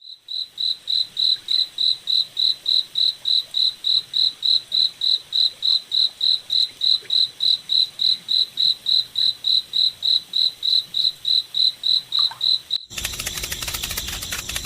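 Insect chirping steadily in short, evenly spaced high chirps, about three a second. Near the end it cuts off suddenly and a dense, rapid rattling noise takes over.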